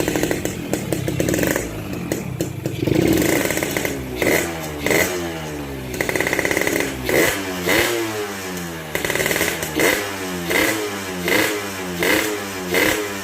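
Yamaha YT115 motorcycle engine running through a custom racing exhaust made from a Yamaha RX-King muffler. It idles unevenly at first, then from about four seconds in the throttle is blipped again and again, roughly once or twice a second, each rev rising and falling.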